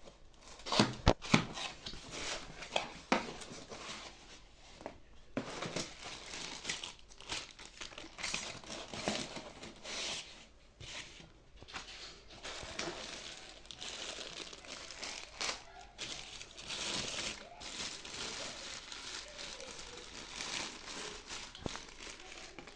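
Scraping, rustling handling noises that run on unevenly, with a few sharp knocks about a second in.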